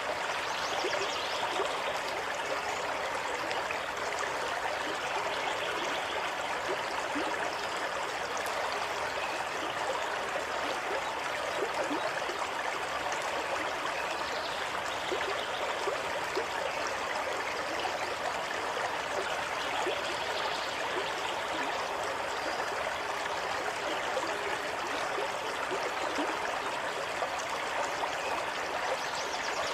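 Running water of a natural stream, flowing steadily and evenly.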